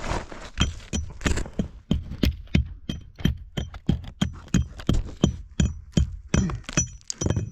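Hammer blows on cave rock, about three a second in a steady run, each strike with a short metallic ring, chipping knobs off the rock to smooth a tight squeeze.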